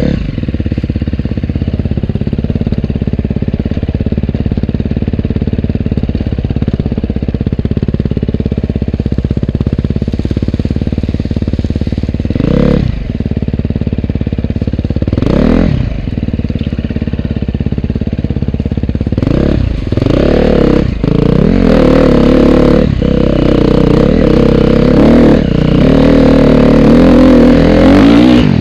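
Dirt bike engine running. It revs up sharply twice near the middle, then runs louder and harder with repeated revving in the last third.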